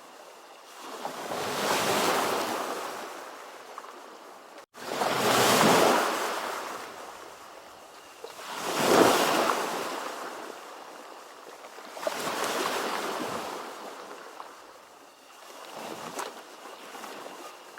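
Ocean waves surging and washing back, five swells of surf, each building and fading over a few seconds. A split-second gap breaks the sound just before the second swell.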